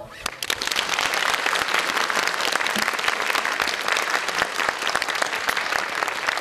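Audience applauding steadily, right after a song with guitar ends; the clapping starts just after the music stops.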